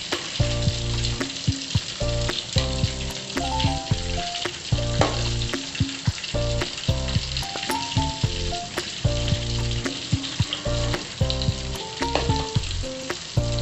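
Chicken wings deep-frying in hot oil in a wok, a steady sizzle, with short clicks and scrapes of the utensil against the wok as the pieces are turned. Background music with a melody and a bass beat plays throughout.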